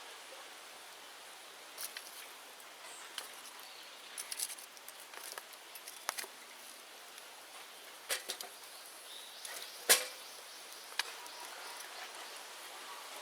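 Open-air bonfire of cleared bamboo burning: a steady crackling hiss broken by sharp pops and cracks, the loudest about ten seconds in.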